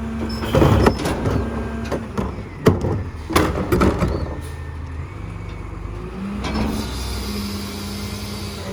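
Rear-load garbage truck's diesel engine running steadily, with several loud bangs and clattering in the first four seconds. About two-thirds of the way through, the engine picks up slightly and a hiss comes in.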